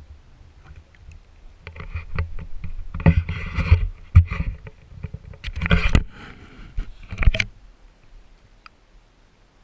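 Muffled knocking, scraping and swishing of a GoPro in its waterproof housing being moved about under pond water. The sound comes in several loud bunches between about two and seven and a half seconds in.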